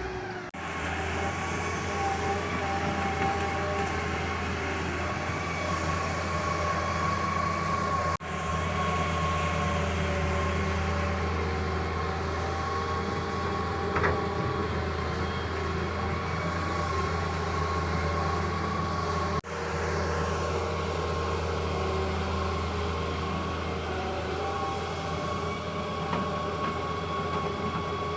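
Doosan 140W wheeled excavator's diesel engine running steadily, with a deep drone and a steady high whine over it. The sound drops out for an instant twice, about eight seconds in and again near twenty seconds.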